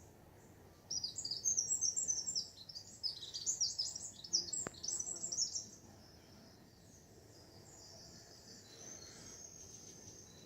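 A songbird singing a rapid, jumbled run of high chirps and trills for about five seconds, then stopping; a faint thin high note follows near the end.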